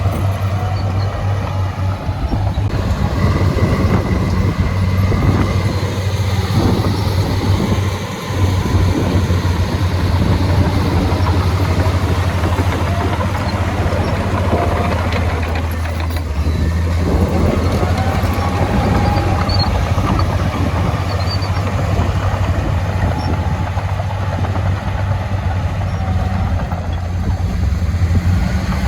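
Heavy diesel earthmoving machinery running steadily under load, with its engine note rising and falling.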